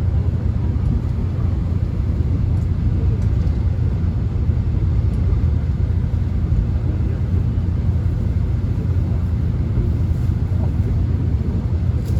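Steady low rumble of a subway train in motion, heard from inside the passenger car.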